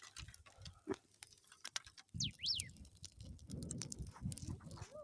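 Newly lit small wood campfire crackling, with irregular sharp pops. A short high whistle rises and falls about two seconds in.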